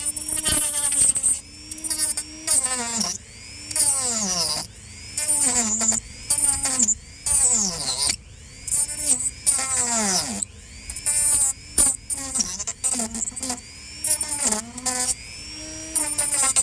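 Handheld power tool cutting into a dried gourd shell in repeated short bursts, with a hiss of cutting. Its motor pitch drops in each burst as it bogs down in the thick shell.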